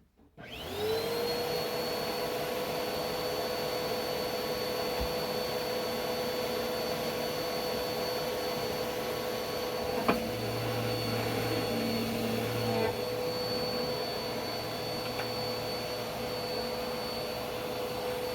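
Vacuum cleaner switched on: its motor spins up with a rising whine within the first second, then runs steadily with a high, even whine over the rush of air. There is a single sharp knock about ten seconds in.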